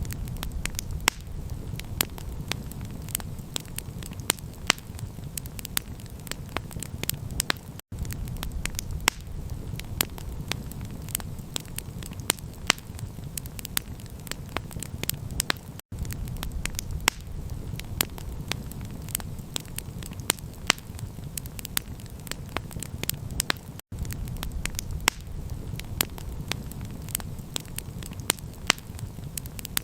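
Campfire crackling, with many sharp pops over a steady low rumble. The sound cuts out for an instant about every eight seconds.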